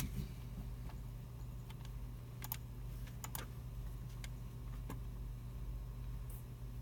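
Computer keyboard keys and mouse buttons clicking sparsely and irregularly in a quiet computer room, over a steady low hum.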